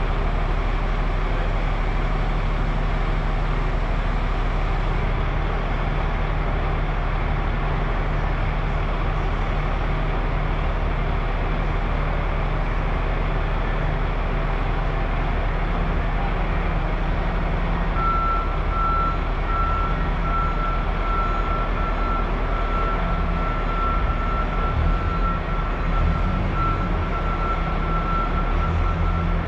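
Heavy diesel machinery running steadily with a low drone. Partway through, a warning beeper starts up and keeps sounding rapid, even beeps.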